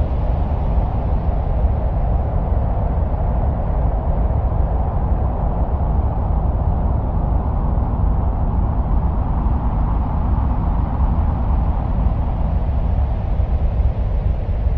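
Steady, wind-like rumbling noise, heaviest in the deep bass, with a hiss higher up that swells a little around the middle and eases off later, presented as the sound of wind on Mars.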